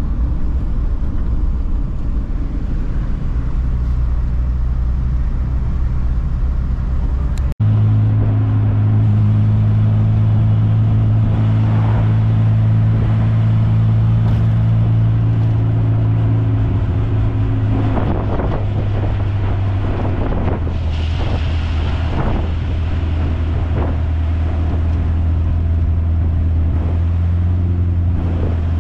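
Morris Minor's four-cylinder engine and road noise heard from inside the car's cabin while driving, a steady low drone. It cuts out abruptly for an instant about seven and a half seconds in and comes back with a higher engine note, dropping somewhat again later on.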